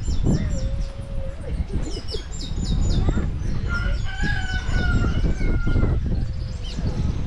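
A rooster crowing, one long call starting about four seconds in, with small birds chirping around it.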